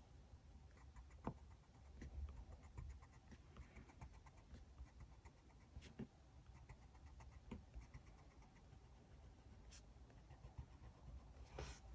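Quiet desk sounds of diary decorating: a few faint, scattered taps and clicks of stationery being handled, with soft paper rustling.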